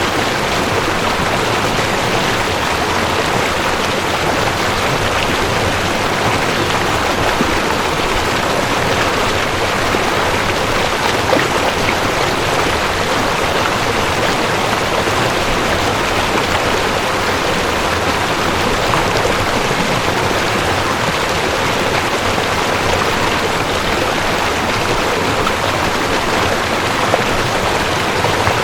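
Mountain stream rushing over rocks, a steady unbroken rush of water.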